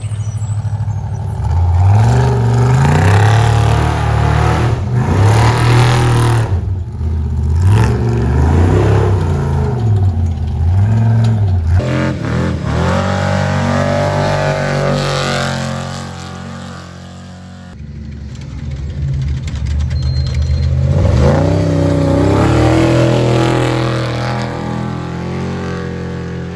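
Trophy Truck Spec off-road race trucks' engines revving hard, the pitch climbing and dropping again and again with the throttle. The sound fades somewhat about two-thirds through, then rises again.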